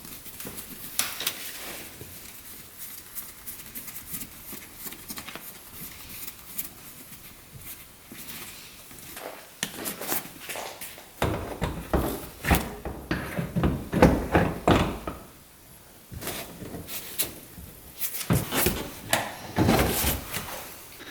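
Scattered knocks, clunks and rustling as a replacement seat is pushed and worked into place on a UTV, with a busier run of knocking past the middle and again near the end.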